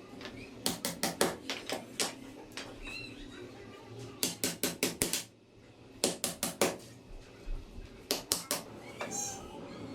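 Sharp, light hammer taps in quick runs of three to five strikes, with short pauses between the runs, as wooden sticks for a bird cage are nailed together.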